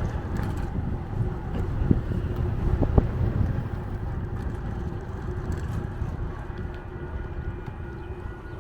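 Wind rushing over the microphone and tyre rumble from a moving bicycle, a steady low roar with two short knocks about two and three seconds in.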